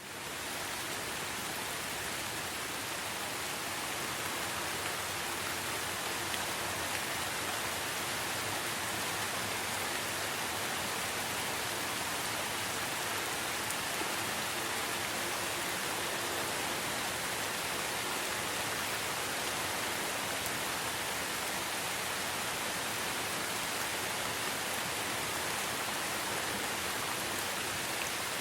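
Steady forest rain, an even hiss of falling rain that fades up over the first second and then holds level throughout.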